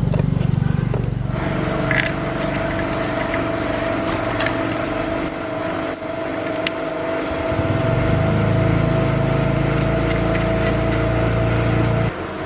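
A machine running steadily with a constant hum; a higher steady tone joins about a second in, and the sound drops off abruptly near the end.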